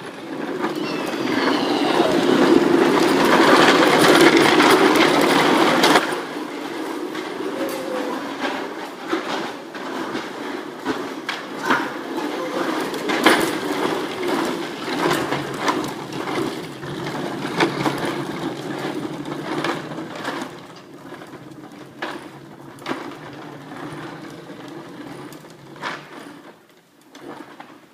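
Hard plastic wheels of Bobby Car ride-on toys rumbling and rattling as they roll along the ground, loudest for the first six seconds, then softer with scattered clicks and knocks.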